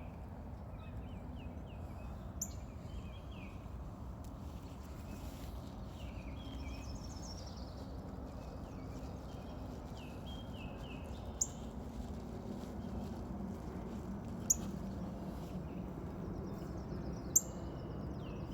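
Small birds chirping with many short falling notes, plus four sharp, loud high chips spread through, over a steady low background noise.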